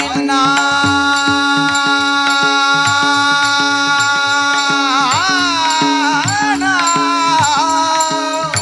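Kirtan singing in the Varkari devotional style. One voice holds a long note for about five seconds, then moves into an ornamented, winding melodic phrase, over a steady drone and regular percussion strokes.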